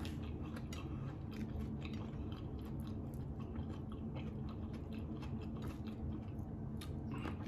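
A person chewing food, with scattered small clicks and crunches of the chewing, over a steady low hum.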